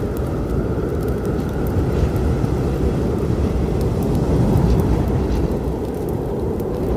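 A steady low storm rumble with sharp, scattered crackles from a wood fire on top.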